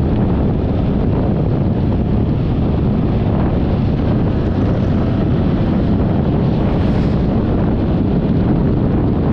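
Steady rush of wind over the camera microphone while riding a Yamaha XMAX 300 scooter, with engine and road noise underneath.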